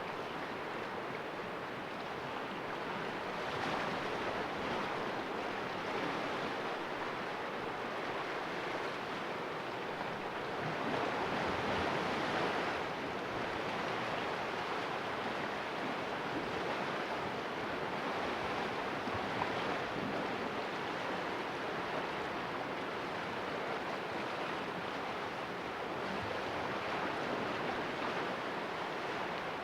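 Sea waves washing and splashing against the rocks of a cove in a steady hiss of surf, swelling gently, with a slightly louder surge about eleven seconds in.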